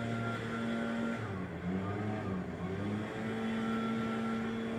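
Landscapers' small gasoline engine running, its pitch dipping and wavering between about one and three seconds in, then holding steady again.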